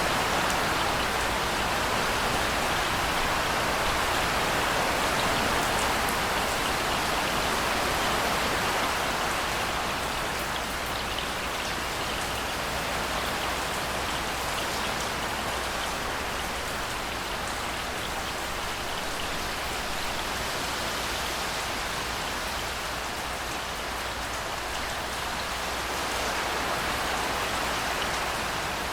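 Steady rainfall, a dense even hiss of many drops with faint scattered ticks of individual drops, easing slightly about a third of the way in.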